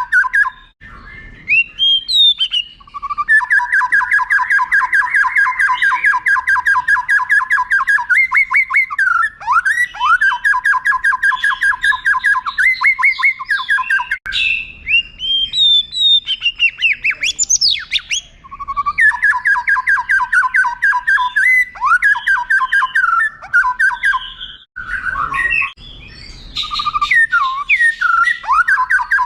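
White-rumped shama (murai batu) singing: several long, rapid rolling trills of evenly repeated notes, broken by whistled phrases that sweep up and down in pitch.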